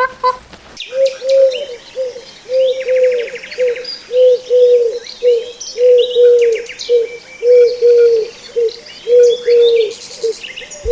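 A dove cooing over and over, a low coo in repeated phrases of a longer note and a short one, about once a second, starting about a second in. Smaller birds chirp and trill at a higher pitch behind it.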